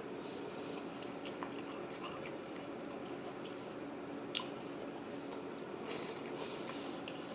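A person chewing a mouthful of rice, beans and tofu, with soft wet mouth sounds and scattered small clicks over a steady low room hum.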